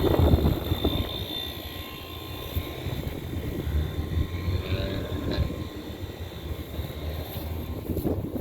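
Goodman central air-conditioner condenser unit running: a steady fan rush over a low hum.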